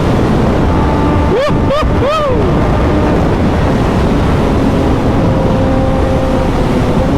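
Suzuki motorcycle's engine running at a steady cruise under heavy wind rush on the microphone. About a second and a half in, three short pitched calls, each rising and then falling.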